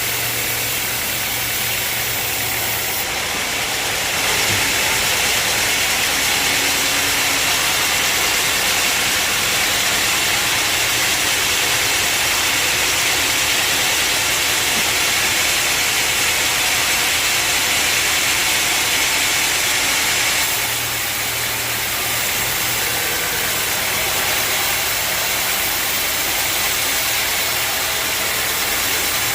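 Sawmill machinery running with a steady engine hum. A louder, hissier stretch lasts about sixteen seconds in the middle, then drops back to the plain hum.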